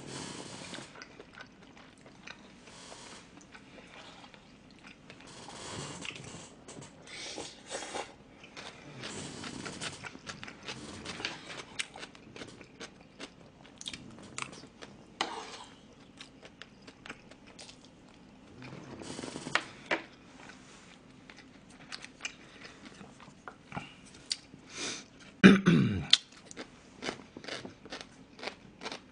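A person chewing mouthfuls of seafood rice bowl and fried rice close to the microphone, with short clicks of a metal spoon against the dishes. One loud, short throat sound, falling in pitch, a few seconds before the end.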